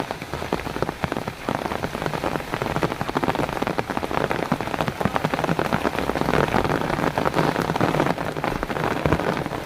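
Heavy rain falling steadily: a dense, even patter of drops striking surfaces.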